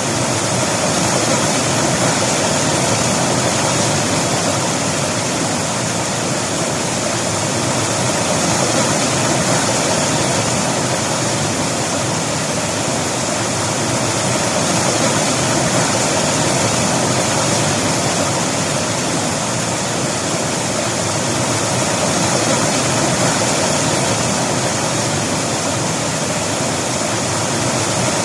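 River water rushing and splashing over rocks in a steady, loud, even wash.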